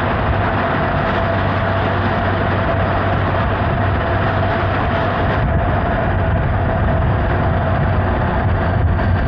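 Honda Hornet 900 motorcycle being ridden at a steady pace: its inline-four engine runs evenly under a dense, steady rush of wind and road noise.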